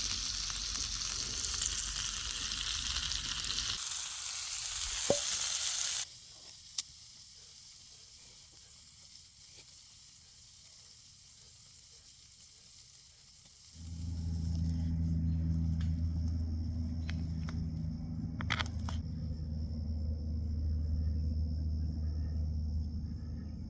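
Venison backstraps sizzling over a campfire, a loud steady hiss that cuts off suddenly about six seconds in. After a quieter stretch, a steady low hum with a faint high steady tone above it comes in about halfway through.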